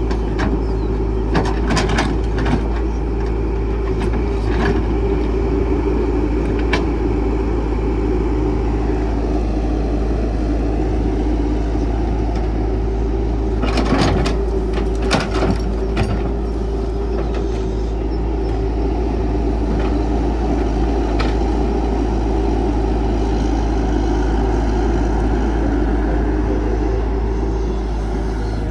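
Caterpillar 312 excavator's diesel engine running steadily, with scattered sharp knocks and a cluster of them about halfway through.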